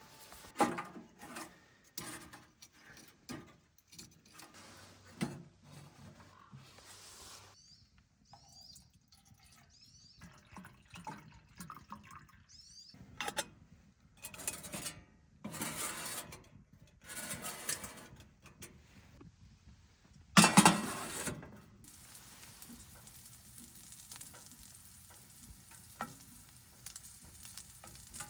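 Camp cooking: a pan and utensils clatter and knock, the loudest clatter about three-quarters of the way through, then food sizzles steadily in the pan.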